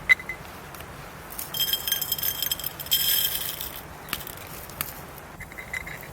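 Clinking and rattling of hard objects, like metal or glass utensils: a sharp click, then about two seconds of ringing clatter, followed by a few single clicks.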